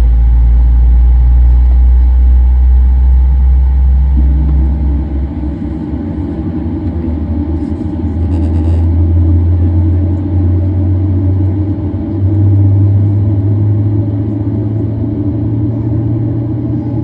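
Loud low rumble and steady hum inside a Boeing 737-800 cabin on the ground. The rumble shifts and eases a few seconds in, then swells again. A brief faint crackle comes about halfway.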